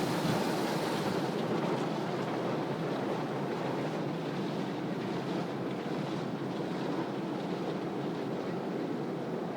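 Steady rushing noise, even throughout, with the hiss of the highest frequencies easing off about a second in.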